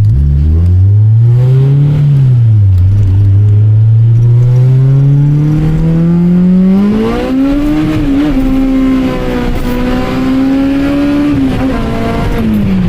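Honda K24 four-cylinder engine accelerating hard. Its note rises, dips briefly about two seconds in, then climbs steadily to a high pitch and holds before falling away near the end.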